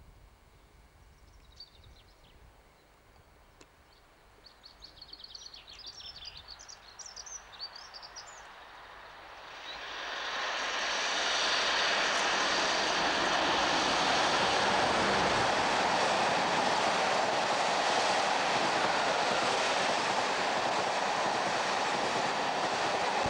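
A British Rail diesel locomotive hauling passenger coaches approaches and passes close by. It is faint at first, grows from about ten seconds in, then holds a loud, steady rush as the train goes by. Birds chirp faintly in the first few seconds.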